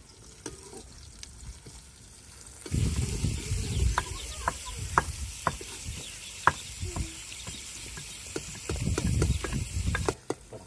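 Food frying and sizzling in a cooking pot while being stirred, with a series of sharp clicks of a utensil against the pot. The sizzle starts about two and a half seconds in and cuts off suddenly near the end.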